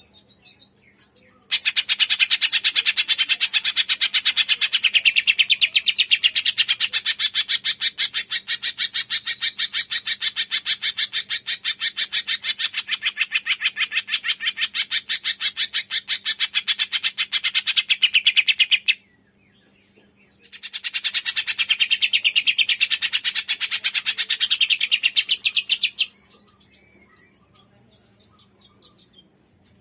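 Green leafbird (cucak ijo) singing its 'tembakan' song, a long, loud run of rapid sharp notes repeated many times a second. It stops about 19 seconds in and resumes for about five more seconds. Faint chirps come before and after.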